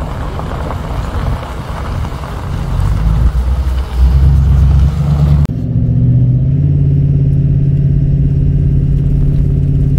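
Bobcat E42 mini excavator engine running with a heavy, noisy rumble. About halfway through the sound cuts suddenly to a steady, even engine drone.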